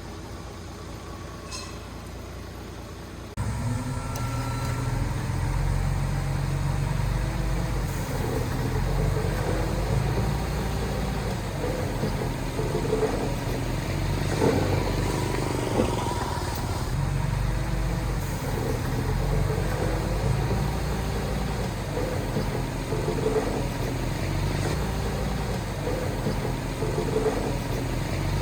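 Heavy diesel earthmoving machinery running: a low engine rumble with shifting squeals and clanks, starting abruptly louder about three seconds in after a quieter, steadier engine hum.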